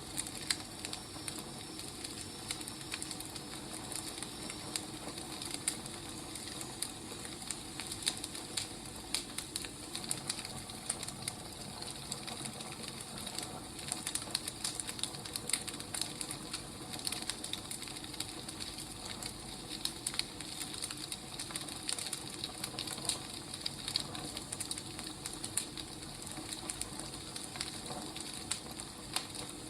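Wood fire crackling steadily, with frequent small irregular pops and snaps over a soft hiss.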